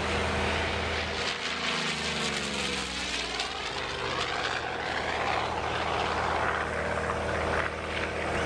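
Vought F4U Corsair's Pratt & Whitney R-2800 twin-row radial engine and propeller flying past, the pitch dropping about a second in as it passes.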